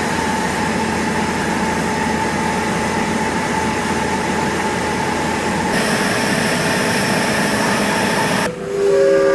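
Live-steam model locomotive: a steady hiss of steam with a held high tone, then a short whistle toot near the end, the loudest sound here.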